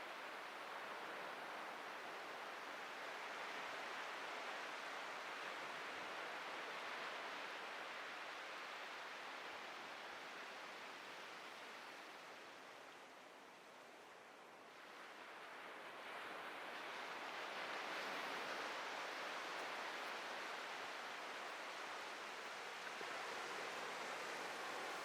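Atlantic Ocean waves washing in: a steady rushing wash that eases off a little past the middle, then swells up again a few seconds later.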